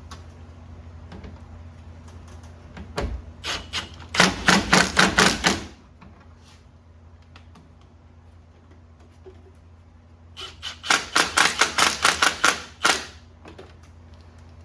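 Ratchet clicking in two quick runs while worm-drive hose clamps on the radiator hoses are tightened, the first about a second and a half long and the second about two and a half seconds. A single knock comes shortly before the first run.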